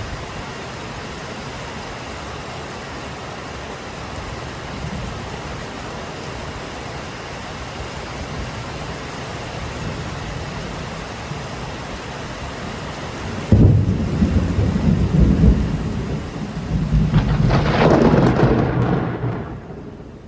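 Steady rain, then about two-thirds of the way through a sudden loud thunderclap that rumbles on for several seconds, swells again and dies away near the end.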